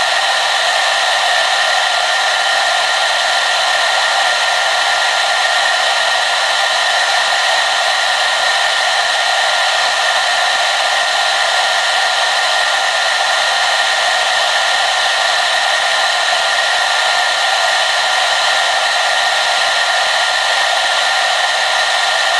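Electric hair dryer blowing steadily, a constant airy rush with a faint steady whine from the motor.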